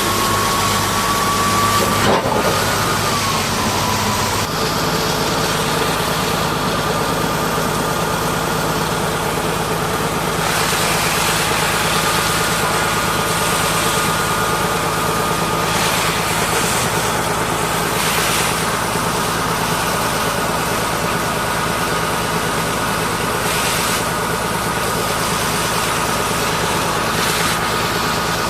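An engine running steadily under a constant hiss, with a high whine that dips briefly in pitch about two seconds in.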